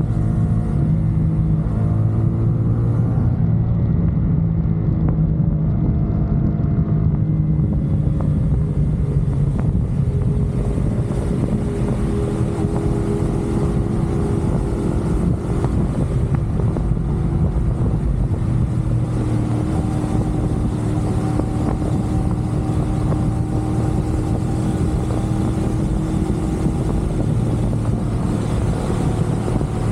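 CFMoto 450SR's parallel-twin engine running steadily under way, with its pitch shifting a few times, over road and wind noise on the microphone.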